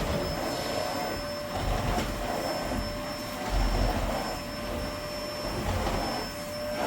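Vacuum cleaner running steadily over carpet, a motor whine with two steady tones over a rushing air noise.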